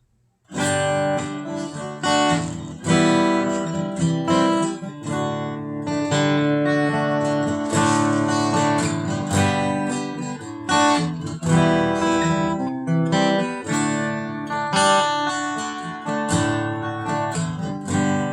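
Acoustic guitar playing an instrumental song intro, strummed and picked chords beginning about half a second in.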